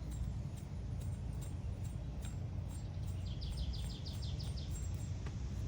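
Steady low outdoor background rumble, with a bird's fast, high chirping trill about three seconds in, lasting about a second and a half.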